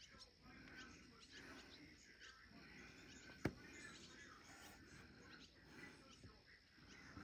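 Faint evening outdoor ambience with small birds chirping now and then, and a single sharp click about three and a half seconds in.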